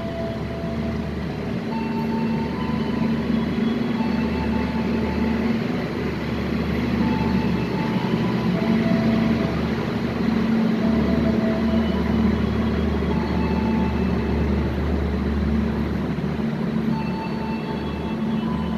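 A train running through a railway station with a steady, loud rumble, and brief high tones sounding over it now and then.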